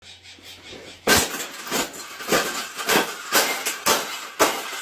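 Repeated loud bangs, about two a second, starting about a second in, each with a short rattling ring: a wire bird cage being struck or knocked apart.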